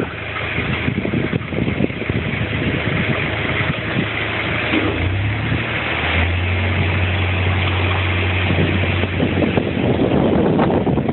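A boat's engine running with a steady low hum that grows louder around the middle and falls back near the end.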